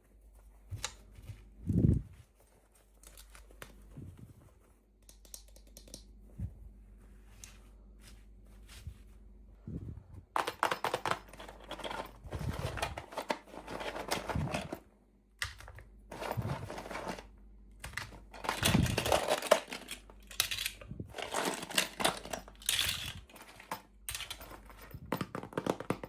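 Packaging being crinkled and torn open by hand in irregular bursts, with small taps and handling noises; sparse at first, then busier from about ten seconds in.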